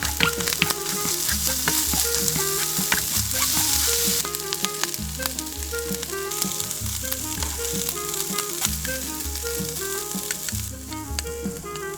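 Shrimp fried rice sizzling in a hot pan as it is stir-fried, with clicks and scrapes of the utensil against the pan. The sizzle is loudest for the first four seconds and then drops back.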